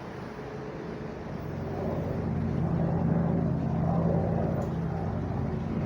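AH-64 Apache helicopter flying by, its steady low rotor and engine drone growing louder about two seconds in, then holding.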